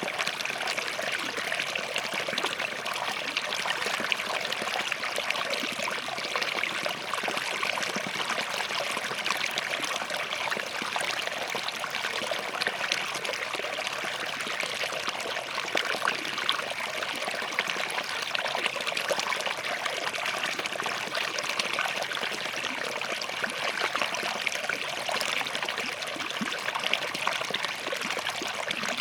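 Small forest stream flowing over rocks: a steady babble of running water with fine trickling and splashing detail.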